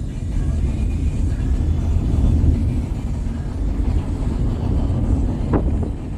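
A steady, loud low rumble without any clear tone, with one brief sharp sound about five and a half seconds in.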